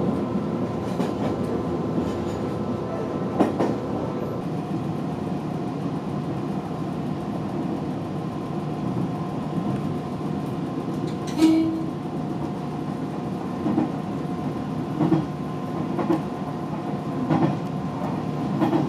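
JR Kyushu 815 series electric train running, heard from inside behind the cab: steady running noise with a steady hum. The wheels knock over rail joints several times, mostly in the second half, loudest about eleven seconds in.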